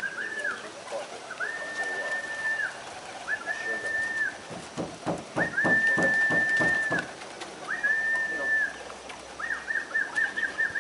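A person whistling to loft pigeons: about six high whistled notes, most held steady for about a second, the first and last broken into quick trills, with pigeons cooing faintly underneath and a quick run of flaps or thumps about halfway through.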